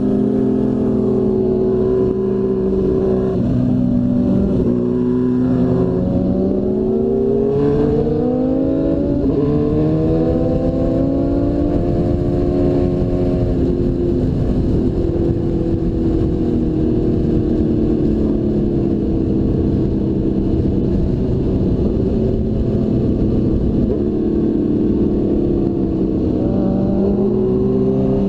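2002 Suzuki GSX-R1000's inline-four engine under way, its pitch rising and falling as the throttle is worked, with a long climb in revs about eight to thirteen seconds in. Wind noise rumbles beneath it.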